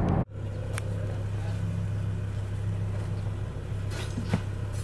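A moment of car road noise, then a cut to a BMW's engine idling, heard from inside the cabin as a steady low hum, with a few faint clicks.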